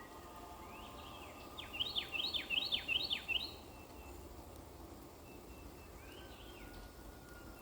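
A songbird singing a quick phrase of six or seven sharp down-slurred notes, then a shorter, fainter phrase a few seconds later, over the steady hush of a gentle spring rain.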